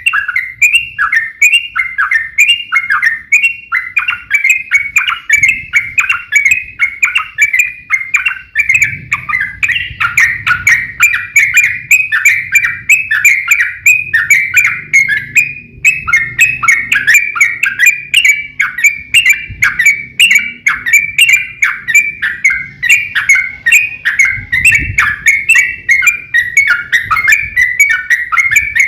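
Yellow-vented bulbul (trucukan) singing a long, unbroken run of rapid chattering notes, each a short downward sweep, several a second: the energetic 'fighting' song that bird keepers play to provoke caged bulbuls into answering.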